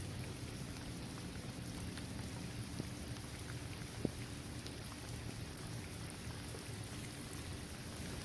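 Steady rain falling on a hard court surface, trees and grass, with scattered individual drops ticking and one sharper drop about four seconds in.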